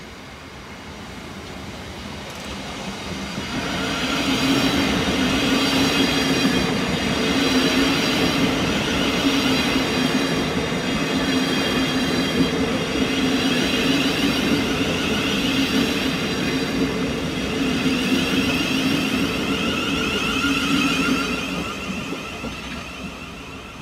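Thameslink Class 700 electric multiple unit passing close by. Its running noise builds over the first few seconds to a steady loud rush with a hum and a higher whine in it, then fades away near the end.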